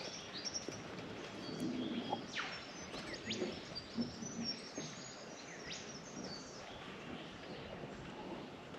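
Rainforest birds calling: scattered short chirps and several sliding whistles, some falling and some rising, over a faint steady background hiss.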